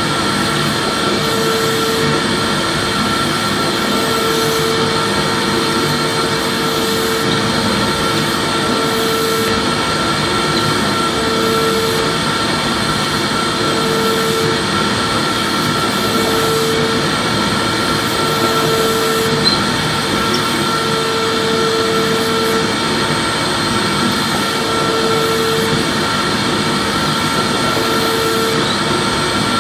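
Vacuum cleaner running steadily: an even rushing noise with a steady high whine, and a lower hum that comes and goes every second or two.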